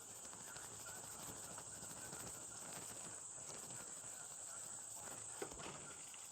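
Insects chirring in a steady high-pitched chorus, with one faint click about five seconds in.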